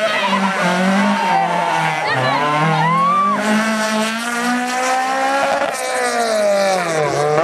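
Rally car engine revving hard at high revs, its pitch dipping briefly about two seconds in, as at a gear change, then holding before it falls and picks up again near the end.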